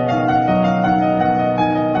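Soft background piano music, sustained notes changing slowly.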